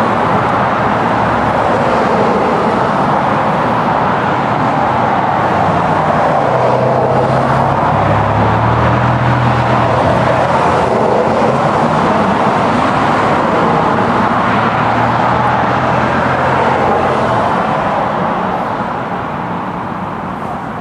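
Steady, loud vehicle noise, with a low engine hum that comes in partway through and fades out again; the whole sound drops away near the end.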